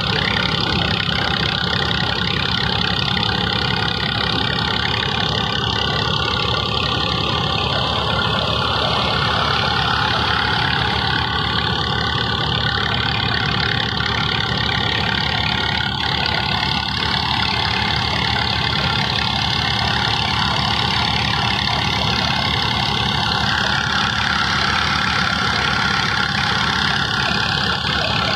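A tractor engine runs steadily under load while driving a threshing machine, with a constant hiss from the thresher over the engine's rumble.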